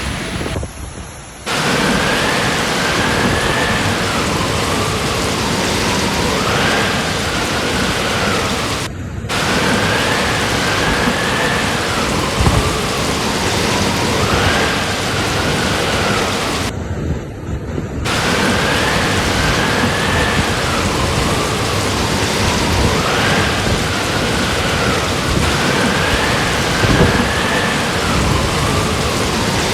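Heavy rain pouring down, a dense steady hiss that breaks off briefly three times. A faint tone rises and falls every few seconds underneath it.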